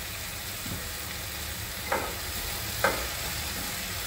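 Chopped tomato, onion and garlic sizzling in oil in a frying pan, with a utensil knocking against the pan twice, about two and three seconds in.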